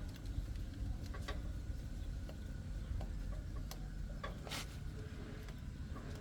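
Scattered light clicks and taps of hand tools and small metal parts being handled, over a low steady rumble. The sharpest click comes about four and a half seconds in.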